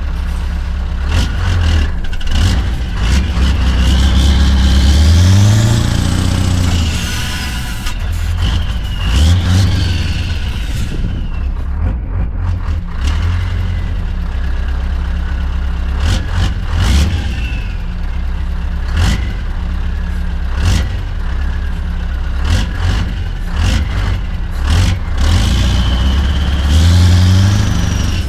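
Scania V8 truck engine running and revving, its pitch climbing twice as it accelerates, with a high whistle that rises and falls during the first rev and short sharp clicks throughout.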